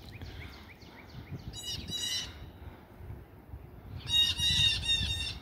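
Birds calling in the open: a northern cardinal's quick series of repeated whistled notes, about four a second, then louder, harsher bursts of bird calls about a second and a half in and again near the end.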